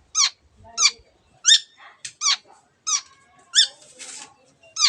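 Long-tailed shrike (cendet) calling in a repeated series: seven short, sharp notes about two-thirds of a second apart, each falling steeply in pitch.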